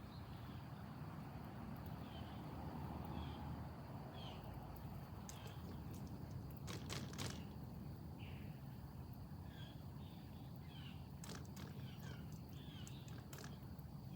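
Quiet backyard ambience: scattered short bird chirps over a steady low hum, with a few sharp clicks around the middle.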